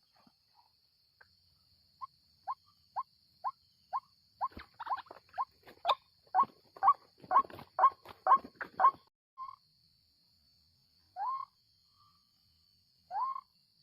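White-breasted waterhen calling: a run of short rising notes, about two a second, that speed up in the middle with clattering noises among them. Near the end come slower, longer rising calls about two seconds apart. A steady high insect trill runs underneath.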